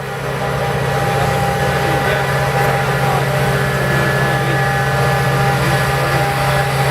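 A heavy engine running steadily with a constant low hum.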